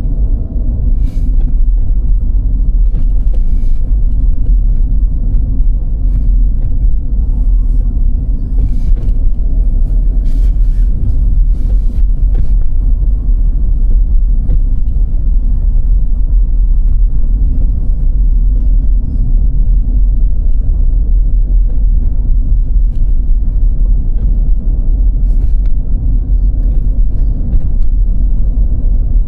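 Car driving on snowy roads: a steady low rumble of engine and tyres, with a few faint clicks in the first half.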